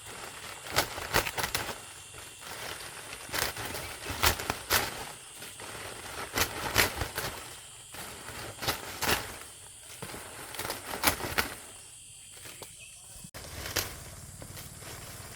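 Dry palm leaves rustling and crackling as they are handled, in irregular bursts about every second.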